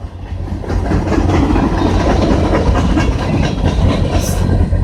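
CN train's cars rolling past on the rails, a steady rumble and clickety-clack of wheels, with a brief hiss about four seconds in.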